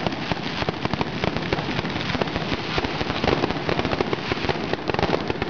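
Fireworks going off in a dense, rapid crackle of many sharp pops and cracks, with a few louder bangs among them.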